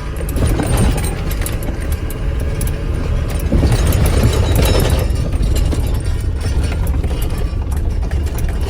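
Diesel pickup's 6.6-litre Duramax LLY V8 turbo-diesel engine running steadily, newly running again after no-start repairs. It swells louder for a moment about half a second in and again about four seconds in.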